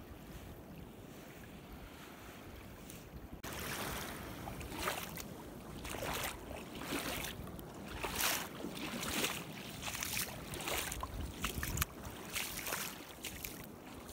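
Feet wading through shallow seawater over sand, each step splashing roughly once a second. The first few seconds hold only a soft steady wash of water, and the sound jumps louder about three and a half seconds in, when the splashing starts.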